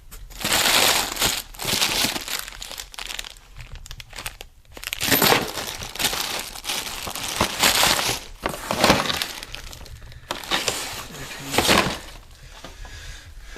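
Crinkling and rustling of plastic packaging as it is handled, in a series of short bursts of a second or less.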